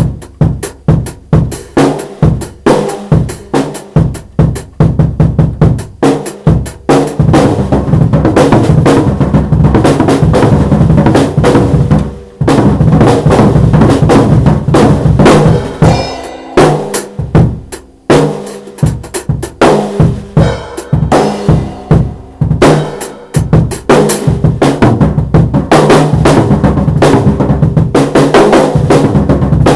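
Drum kit played loudly: separate bass drum and snare hits a few per second alternating with long stretches of rapid, dense fills and rolls.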